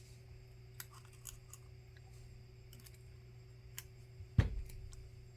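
Scattered light clicks and taps of small repair tools working on a phone's screen assembly, with one sharper, louder knock about four seconds in.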